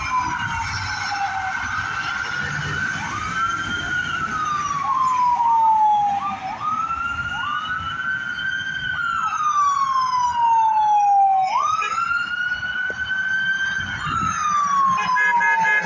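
An emergency vehicle's siren wails, rising and falling slowly about every four to five seconds, with a few quicker rising sweeps mixed in and a heavy engine rumbling underneath. A steady horn blast comes in near the end.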